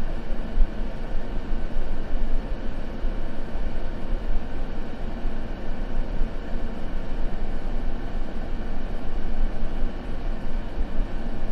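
Continuous synthetic noise played as a sleep sound: a steady, unchanging hiss with its weight in a deep low rumble.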